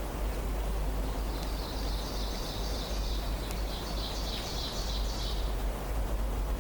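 A songbird sings one high, trilling song lasting about four seconds, over a steady hiss and low rumble of forest ambience.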